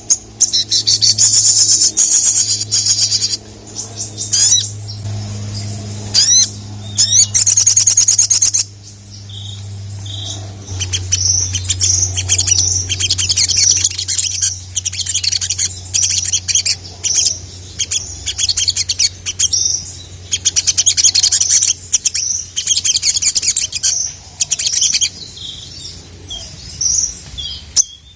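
A sogon (sogok ontong) singing loudly in its full 'gacor' song: long runs of rapid, high-pitched chirps and trills, phrase after phrase with short pauses, over a steady low hum.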